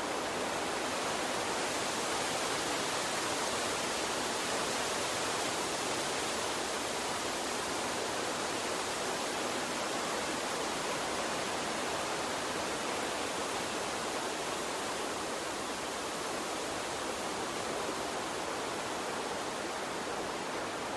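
Flowing water stream rushing steadily, an even hiss with no breaks or splashes standing out.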